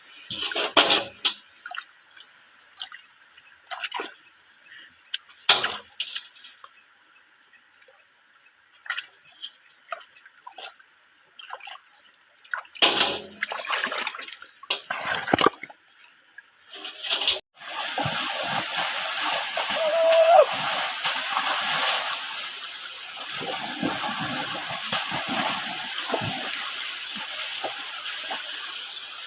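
Water splashing and sloshing in short irregular bursts, then, after a sudden cut, a steady rush of flowing stream water.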